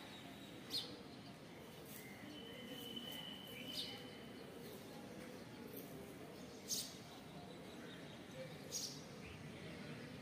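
Faint, steady outdoor background noise with a few short, high bird chirps scattered through it, and a thin steady whistle-like note lasting about two seconds that starts two seconds in.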